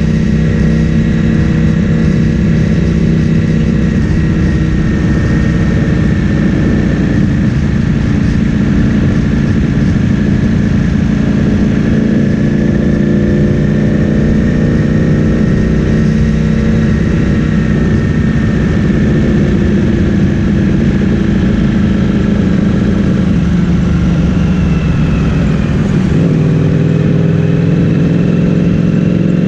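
Ducati Streetfighter V4S's 1103 cc V4 engine running through an Akrapovic full-system exhaust while riding, its pitch rising and falling gently with the throttle. Near the end the note drops lower as the bike slows.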